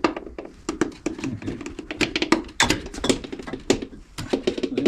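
A run of irregular sharp clicks and taps as hands handle electrical wires and tools.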